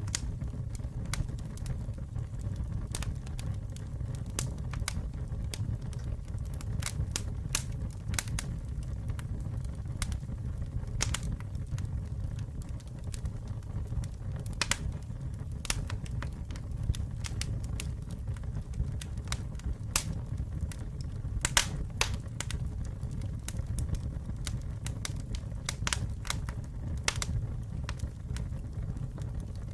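Campfire burning: a steady low rumble of flames with irregular sharp crackles and pops, some louder than others.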